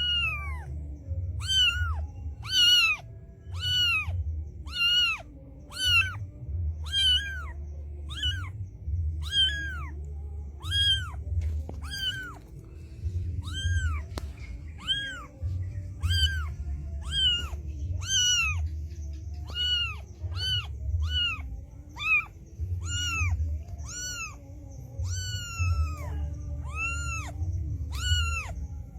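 A cat meowing over and over: short, high-pitched meows that rise and fall, about one a second.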